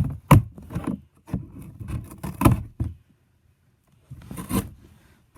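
Cardboard being rubbed, scraped and knocked while a hole is cut in a box, in irregular strokes. The sound stops for about a second, then one more scrape comes near the end.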